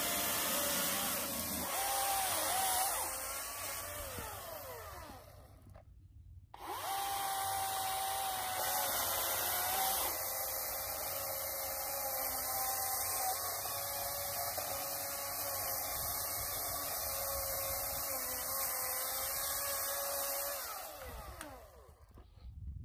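Cordless battery chainsaw running with an electric whine while cutting firewood logs, the pitch sagging as the chain bites. The motor spins down and stops about six seconds in, starts again a moment later, runs steadily, and winds down near the end.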